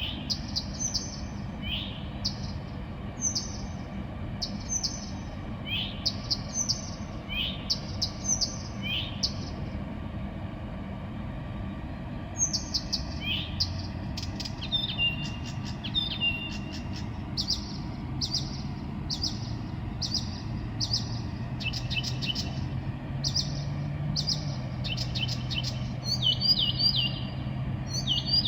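A songbird singing at night: short repeated phrases of high chirps and quick rising whistles, one after another, over a faint steady low hum.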